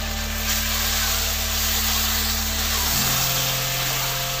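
Chicken sizzling in oil in an open pan on medium heat, with a spatula stirring through it. A low steady hum runs underneath.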